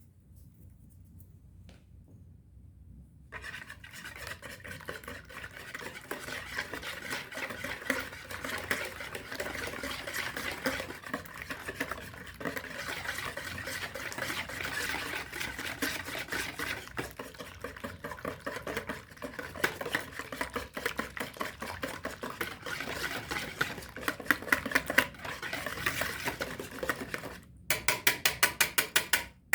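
A utensil stirring rapidly in a bowl, with fast clinking and scraping against the dish, starting about three seconds in. After a brief pause near the end comes a short, louder spell of quick, evenly spaced strikes, about eight a second, like beating.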